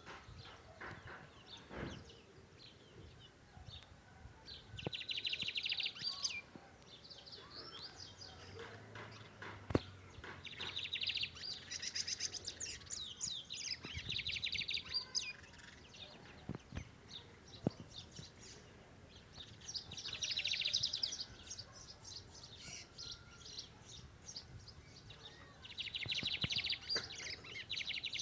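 Lined seedeater (bigodinho) singing: four bouts of rapid, buzzy trilled song, each one to a few seconds long, separated by several seconds of pause.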